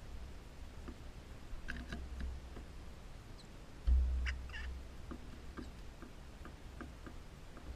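Birds calling in short chirps and clicks, scattered at first, then a run of quick ticks about three a second. A loud low rumble on the microphone comes in about four seconds in.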